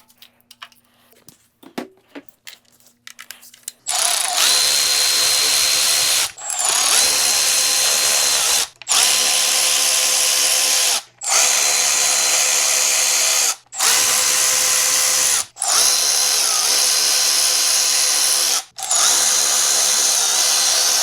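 Cordless power ratchet spinning out the loosened valve cover bolts on a Ford 300 inline six: a steady whir in seven runs of about two seconds each, one bolt after another, starting about four seconds in after a few faint clicks of handling.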